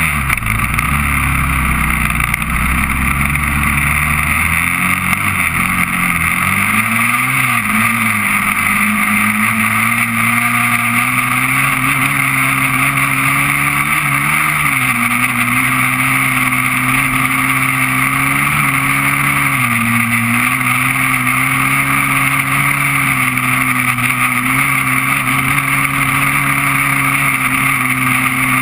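Honda TRX400EX quad's single-cylinder four-stroke engine running under way, its pitch climbing over the first several seconds, then holding fairly steady with small rises and dips. A steady hiss runs over it.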